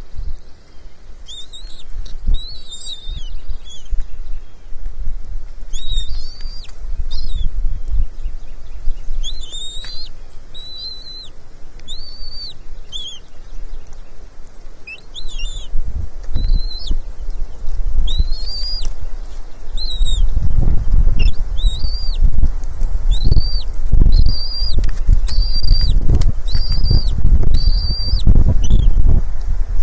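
Bald eagles at the nest giving a steady series of short, high, arching chirps, several a second at times. Under them runs a low rumbling, buffeting noise that grows much louder about two-thirds of the way in.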